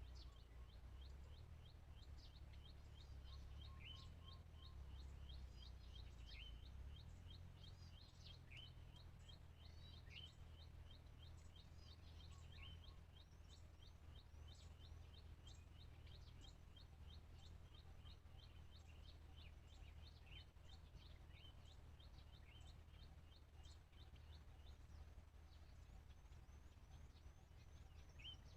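Faint countryside birdsong: short high chirps that drop in pitch come every second or two over a steady rapid high ticking trill, with a low rumble of wind underneath.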